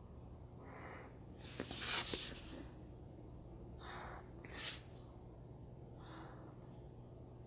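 Short strokes of a pen on paper while small rectangles and squares are drawn: about four brief strokes, the loudest about two seconds in.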